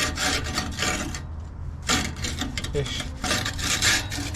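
Rasping metal-on-metal scrapes as a Ford F-150's exhaust pipe is twisted and slid off its joint, in a run of uneven strokes with a short pause about a second in.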